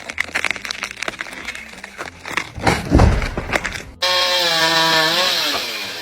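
Wood cracking and snapping in quick succession as a tree gives way, with a heavy thud about halfway through. Then, after an abrupt cut, a chainsaw running at high revs that fall away near the end.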